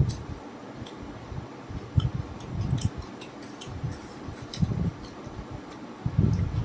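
Close-up eating sounds: scattered small mouth clicks and smacks, with several dull low thumps, the loudest near the end.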